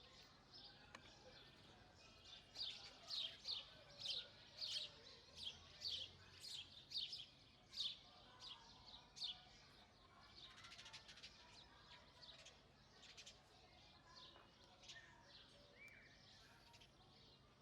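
House sparrows chirping: from about two seconds in, a run of loud, sharp chirps, about two a second, for some seven seconds, then fainter, quicker chirping.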